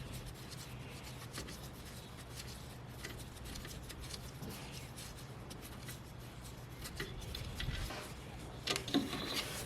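Faint rubbing and scraping with scattered light clicks from hand-tool work on the mounting bolts of a Toyota Hilux alternator. A few louder knocks come near the end, over a low steady hum.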